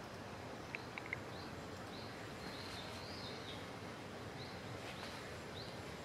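Steady outdoor background noise with small birds calling faintly: short high chirps recurring every half second to a second. Three quick sharp ticks come about a second in.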